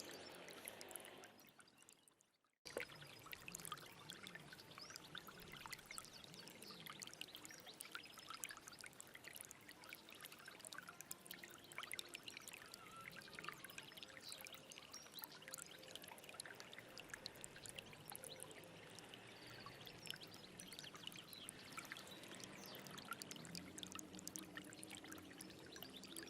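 Stream water running and trickling, with many small splashes and droplets. Early on it fades out to a moment of silence, then cuts back in abruptly, as at an edit or loop join.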